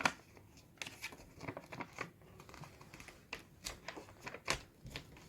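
A sheet of A4 paper being folded and creased by hand: irregular crinkles and rustles with short, sharp crackles.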